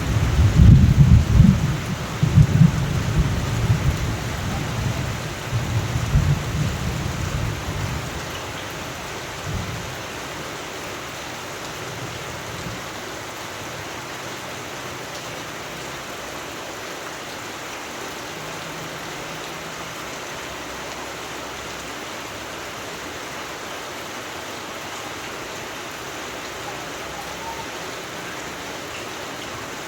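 Steady rain falling, with a long rumble of thunder through roughly the first third that dies away, leaving only the even hiss of the rain.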